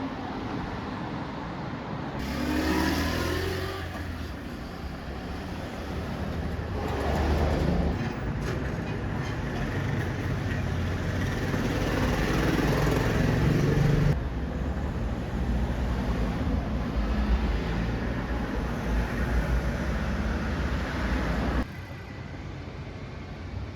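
Honda CT125 Hunter Cub's single-cylinder engine breathing through a TAKEGAWA aftermarket muffler, running and revved up several times, with sudden changes in the sound about two-thirds of the way in and again near the end.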